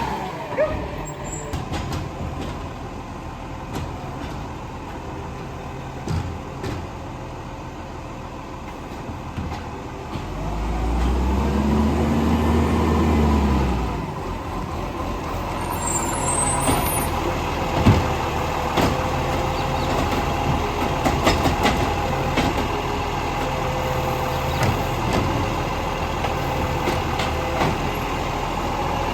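Garbage truck engine running, with its revs rising and falling over a few seconds about ten seconds in. Scattered knocks and clanks are heard.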